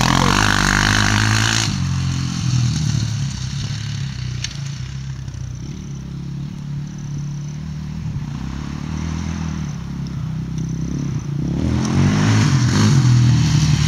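Modified Yamaha Raptor 660 quad's single-cylinder four-stroke engine being revved, settling back to a lower, steady running speed for most of the time, then revved again near the end.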